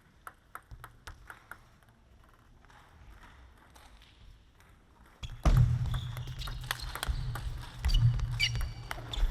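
Light clicks of a table tennis ball in a quiet hall, then about five seconds in a sudden loud burst of crowd noise and clapping over a low drone.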